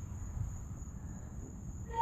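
A pause between fife notes: no note sounds, only a faint low background rumble.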